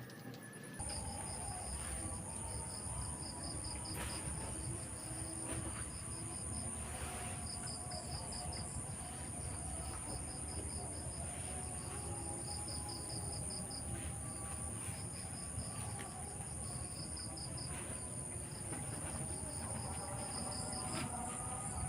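Night insects: a steady high-pitched trill, with crickets chirping in pulsed runs over it and a low rumble underneath.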